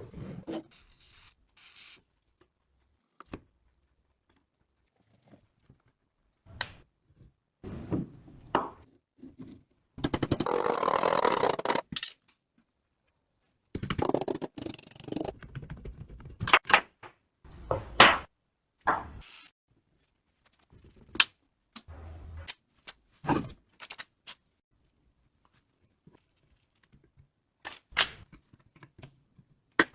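Metal parts and tools being handled during restoration work: scattered clinks and knocks, with two longer bouts of scraping about ten and fourteen seconds in.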